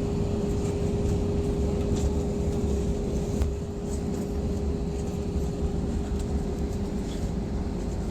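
Airliner cabin noise during the landing: a steady jet engine drone with one constant tone over a low rumble, and light rattling clicks from the cabin.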